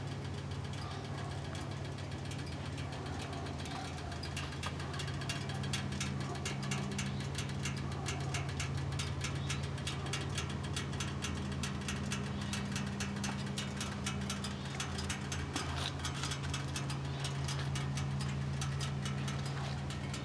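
1998 Harley-Davidson Heritage Softail Classic's Evolution V-twin idling steadily through Vance & Hines exhaust pipes, a low even rumble with a fast mechanical ticking over it.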